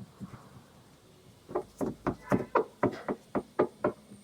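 A quick, even run of about ten light taps or knocks, roughly four a second, starting about a second and a half in.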